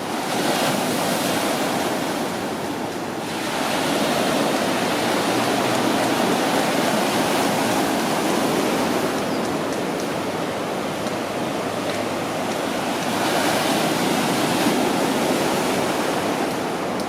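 Big ocean waves breaking and washing ashore in a steady rush that swells and ebbs several times, the heavy surf of a storm swell left by a hurricane.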